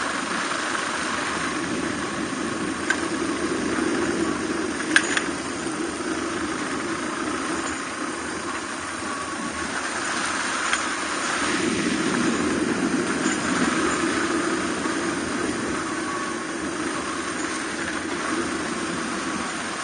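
Suzuki DR250R's single-cylinder four-stroke engine running at steady, moderate revs while riding a forest road, with wind and road noise, the engine note swelling a little twice. A couple of sharp clicks sound early on.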